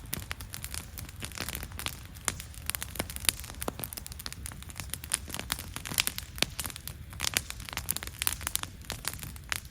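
Wood campfire burning, crackling with frequent irregular sharp pops and snaps over a low steady rumble.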